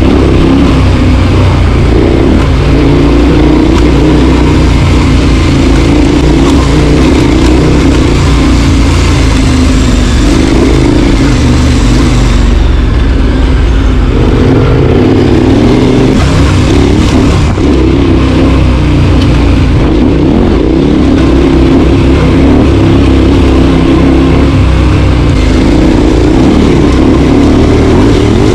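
Four-wheel-drive vehicle driving a rough, challenging dirt track: a loud, continuous engine note that rises and falls as the load changes, over steady road noise.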